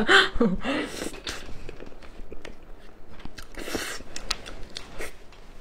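Close-miked eating sounds: a person chewing and biting food, with scattered small clicks and mouth smacks and a short crunchy burst about two-thirds of the way through.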